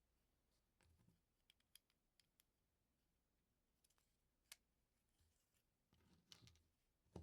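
LEGO pieces being handled: faint, scattered small plastic clicks and taps, a few in a row early, one on its own midway, and a closer cluster near the end with the loudest click.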